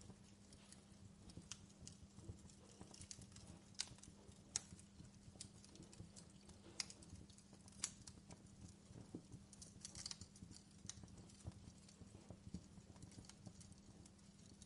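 Fireplace wood fire crackling softly: irregular sharp pops and snaps at uneven intervals over a low rumble, with a faint steady hum underneath.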